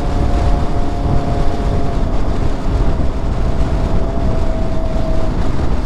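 A 2006 Honda CBR600RR's inline-four engine, fitted with a Yoshimura exhaust, running at a steady cruise with its note holding a nearly constant pitch, over a steady rush of wind noise.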